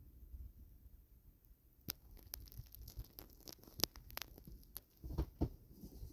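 Footsteps crunching in deep snow: irregular crisp crunches and ticks from about two seconds in, easing off near the end, over a low rumble of wind on the microphone.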